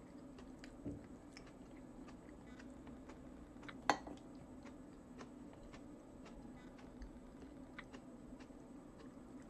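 Faint chewing of cucumber-and-tomato salad, with small wet mouth clicks. About four seconds in, a sharper click as the metal fork strikes the china plate.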